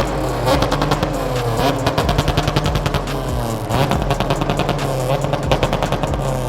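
Car engine revving hard, its pitch rising and falling, with rapid crackling pops from the exhaust.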